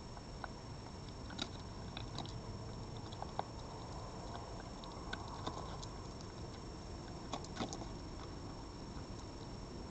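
An animal chewing and crunching food close to the microphone: scattered short clicks and crunches, a few of them louder, over a steady hiss with a faint high whine.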